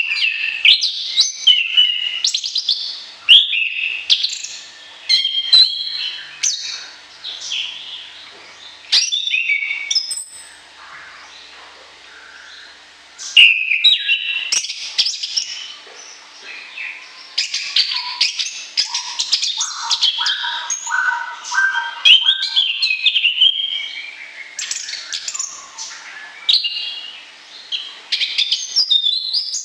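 A songbird singing a fast, varied song of high chirps, whistles and trills, with a quiet gap of a couple of seconds near the middle and a run of lower notes some seconds after it.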